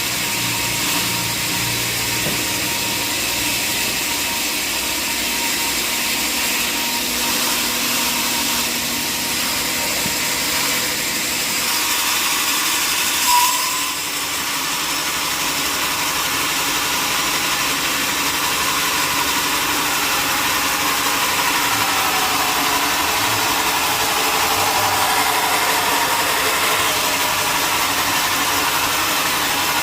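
Sawmill machinery running steadily, with a brief loud high tone about halfway through and a slowly falling tone later on.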